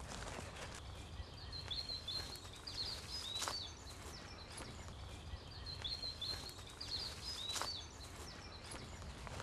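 Small songbird singing short, repeated chirping phrases, in two similar bursts a few seconds apart, over faint outdoor background noise, with a couple of brief clicks.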